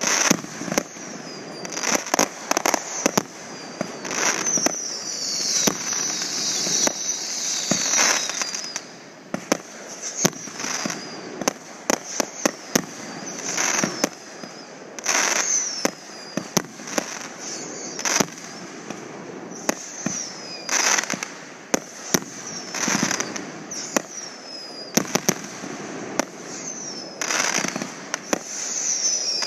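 Consumer aerial fireworks going off in a continuous barrage of sharp bangs and crackling bursts, with thin high whistling tones that slide down in pitch between the bangs.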